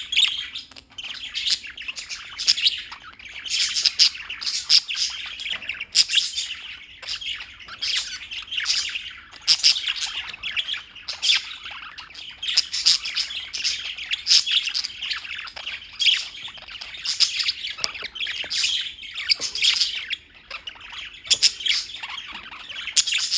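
Small birds chirping continuously, a dense stream of short, high, overlapping calls with brief lulls.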